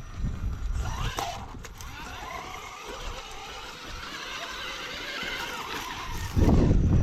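Rock crawler's engine and drivetrain running on a climb, with a wavering whine that rises and falls, then a loud low rumble about six seconds in.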